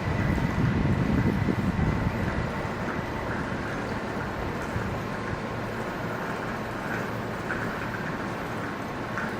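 Electric passenger train running past, its low rumble dying down about two seconds in and leaving a steady, even rolling noise.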